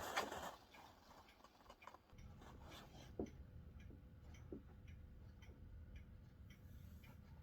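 Faint regular ticking, about two a second, with a low steady rumble of distant thunder setting in about two seconds in. A short burst of hiss at the very start.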